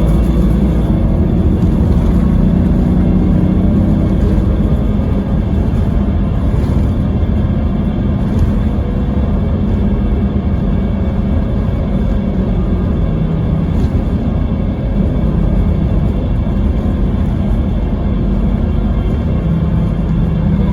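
Scania K320IB coach's diesel engine running under way, a steady drone over road rumble; the engine note drops a little about four seconds in.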